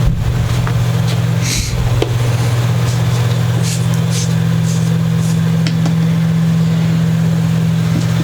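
Steady low machine hum, like a running motor or fan, with a few short scratchy strokes and light clicks of handling on the workbench.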